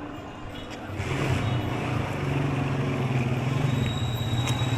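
A motor vehicle's engine running close by, coming in about a second in and holding a steady low drone over street noise.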